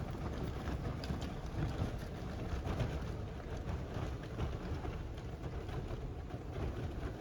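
Wind buffeting the microphone: a steady, fluttering low rumble with light crackling.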